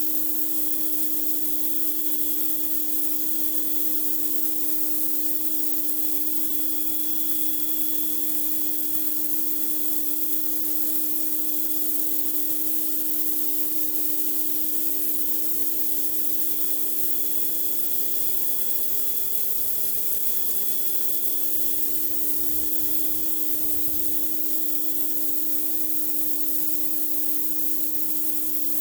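Pressure washer blasting a concrete driveway: a steady hiss of high-pressure water spray over the machine's constant hum.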